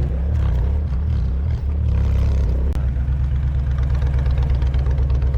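Motorcycle engine idling with a steady low pulse; for a couple of seconds near the start its low tone shifts, then it settles back to idle.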